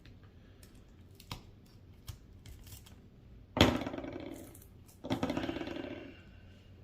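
Two sudden metallic clinks about a second and a half apart, each ringing briefly as it fades, with a few faint clicks before them: small tools being handled against a hard surface while a firecracker is taken apart.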